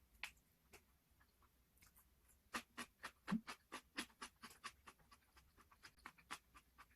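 Crunchy dakgangjeong (Korean sweet glazed fried chicken) being chewed up close. A couple of single crunches come first, then a quick run of crisp crunches, about five a second, from about two and a half seconds in.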